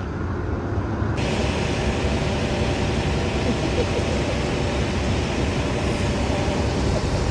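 Steady vehicle running noise, with faint voices underneath.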